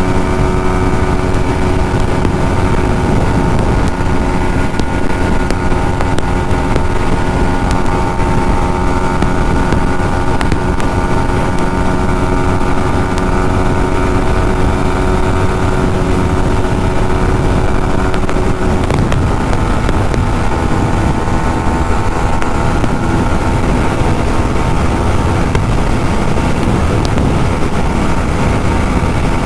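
Yamaha MT-15's 155 cc single-cylinder engine running steadily at high revs in top gear during a top-speed run, with wind rushing over the helmet microphone. The engine note shifts slightly about two-thirds of the way through, and the speed is not climbing any further.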